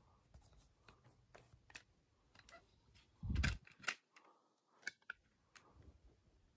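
A CD and its packaging being handled: scattered light clicks and taps, with a louder thump a little after three seconds in and a sharp click just after it.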